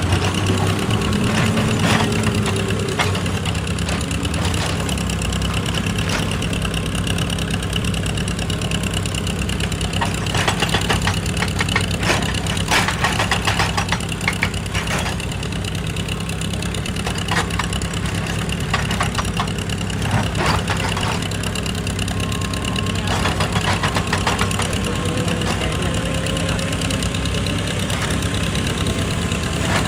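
Excavator engine running steadily under work, with bursts of sharp knocking and clattering a third of the way in and again past the middle.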